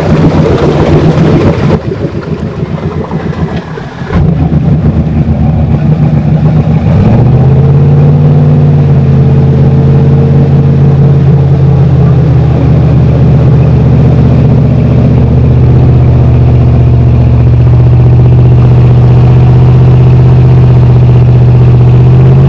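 Off-road 4x4 truck's engine running hard. It revs up about seven seconds in and then holds steady at high revs under load.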